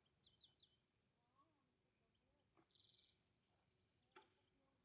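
Near silence with faint birdsong: a few short high chirps at the start and a brief buzzy trill about two and a half seconds in, plus a faint click near the end.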